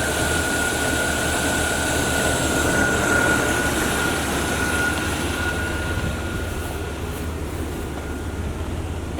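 Carbureted truck engine running with a steady rumble and a high whine that fades out about six seconds in. The engine is not getting fuel from the tank and runs only on the gasoline poured into the carburetor.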